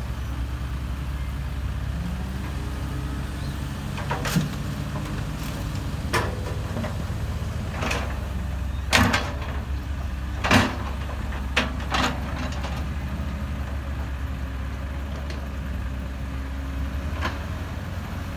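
SANY 135-class hydraulic excavator's diesel engine running steadily under load, with about seven sharp metallic knocks from the working machine, the loudest two near the middle.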